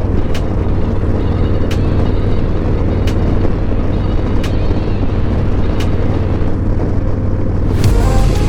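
Harley-Davidson Road Glide's V-twin engine running under way through an S&S slip-on exhaust, a steady low rumble mixed with wind rush. Faint ticks come about every second and a half, and the wind noise gets louder near the end.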